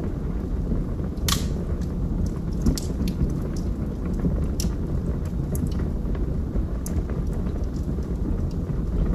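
Log fire burning in a fireplace: a steady low rumble of flames with scattered crackles and pops from the burning logs, one sharper pop about a second in.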